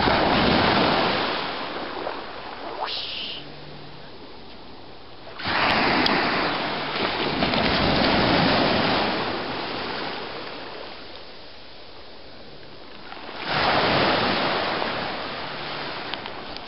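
Ocean waves breaking on the beach, three times: a surge of crashing surf just after the start, another about five seconds in and a third near the end, each washing up and fading away.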